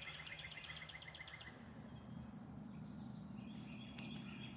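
Backyard birds calling: a fast, even trill ends about a second in, then short, very high chirps that drop in pitch come about every three quarters of a second. A faint low hum runs underneath.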